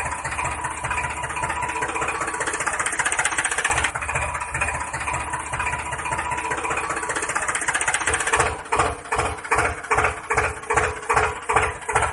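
Small motor of a homemade mini tractor running with a steady rattling drone. About eight seconds in, it changes to an even pulsing of two to three beats a second.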